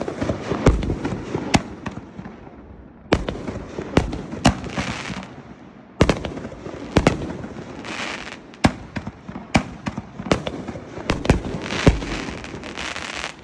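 Consumer artillery shells fired from a mortar tube, several in a row a few seconds apart: sharp bangs of launch and break, each group trailed by crackling.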